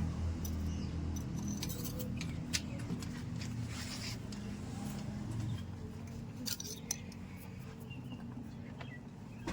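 Engine running steadily at low speed, with scattered light metallic clicks and clinks over it.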